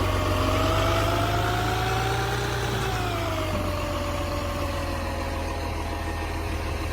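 Garbage truck engine running, its pitch rising for about two and a half seconds, then falling back and settling steady.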